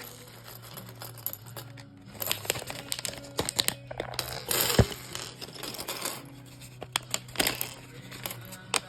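Plastic Lego pieces clicking and rattling while a set is built, with the crinkle of plastic parts bags being handled; a louder rustle and a sharp click come about four to five seconds in.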